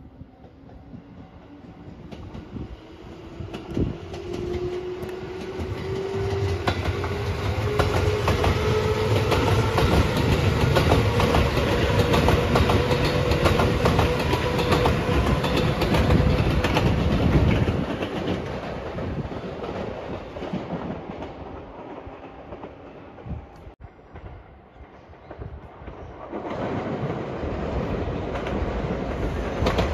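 A JR 213 series electric train passes close by, its motors giving a whine that rises steadily in pitch, its wheels clacking over the rail joints. The sound is loudest as the cars go by, then fades. Near the end a second electric train, a 227 series, is heard approaching.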